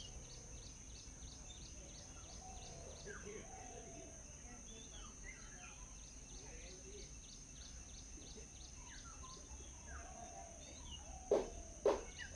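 Birds chirping in short calls over a steady high insect-like hum and a rapid ticking call repeating about three times a second; two sharp knocks near the end.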